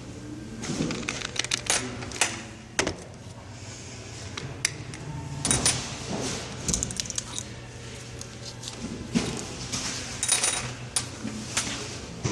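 Metal parts of a Warn winch clinking and tapping as it is taken apart by hand: irregular sharp clicks and knocks, over a steady low hum.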